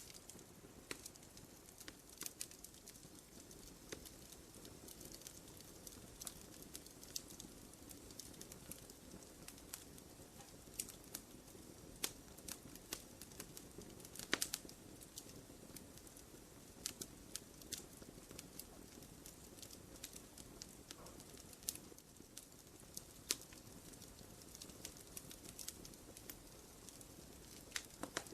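Wood fire crackling in a fireplace: scattered, irregular sharp pops and snaps over a soft low hiss, with one louder pop about halfway through.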